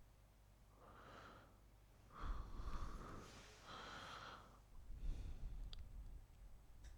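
Faint breathing and sniffing close to a microphone: several short breathy puffs, with a couple of light clicks near the end.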